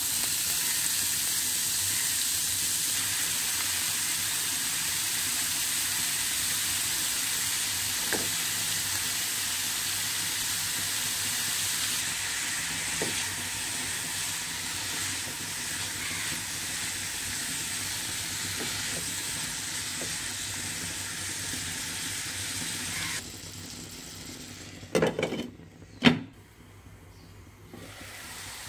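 Grated cauliflower sizzling in hot oil in a pan while it is stirred with a spatula: a steady frying hiss. Near the end the sizzle drops away and a few sharp knocks sound, one of them loud.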